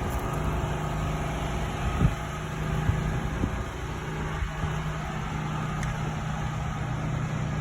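Mazda CX-3's four-cylinder engine idling steadily, with a single low thump about two seconds in.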